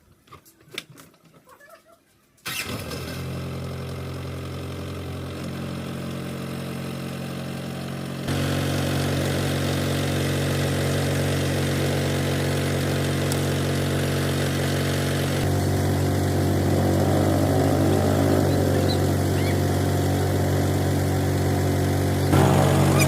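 A few faint clicks, then an engine comes on abruptly about two and a half seconds in and runs steadily. It gets louder and deeper-toned about eight seconds in and shifts again later.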